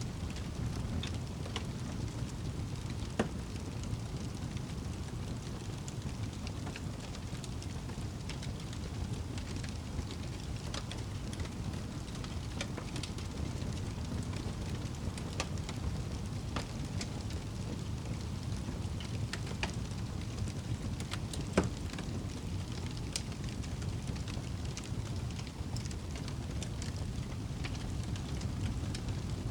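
Wood fire burning in a fireplace: a steady low rumble with scattered crackles, and two louder pops, one about three seconds in and one a little past twenty seconds.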